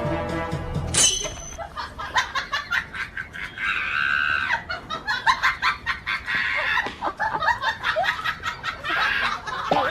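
Chicken clucking and squawking in quick, short calls, with some louder squawks. Music stops about a second in, just before the calls start.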